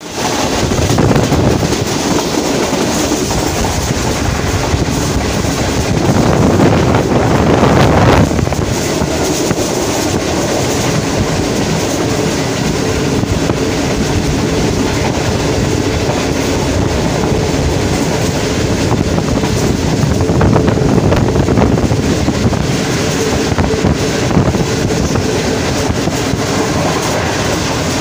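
Passenger train running at speed: the loud, steady running noise of the carriage's wheels on the track. It swells briefly about six seconds in and again around twenty seconds.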